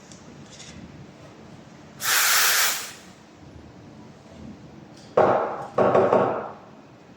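Short bursts of steam hissing from an espresso machine's steam wand: one about two seconds in, then two close together near the end.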